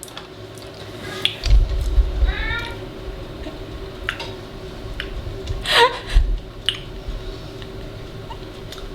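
A house cat meowing twice, short calls a few seconds apart, with a few light clicks and knocks of handling in between.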